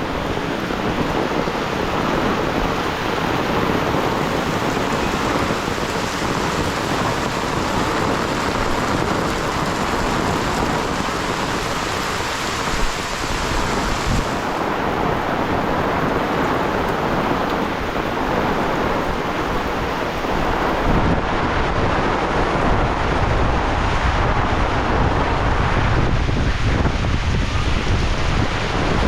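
Heavy rain pouring steadily, with strong wind buffeting the microphone; the low wind rumble grows stronger about twenty seconds in.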